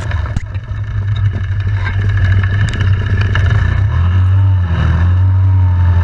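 ATV engine running while riding, its pitch rising and falling with the throttle, then held steady near the end. A short knock sounds just after the start.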